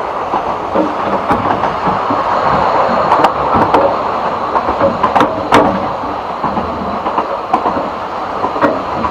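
Narrow-gauge railway carriage running along the track: a steady rumbling clatter of wheels on rail, with a few sharp clicks and knocks standing out.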